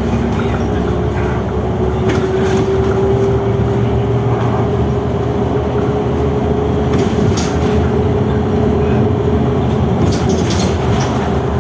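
Inside a Youngman City-Liner bus running at speed, its MAN D0836 diesel engine and road noise making a steady loud rumble under a steady whine. Short rattles and knocks come several times, about two seconds in, again around seven seconds in and near ten seconds.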